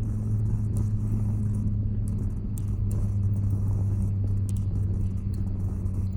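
Wood campfire burning, with a few sharp crackles and pops scattered over a steady low rumble.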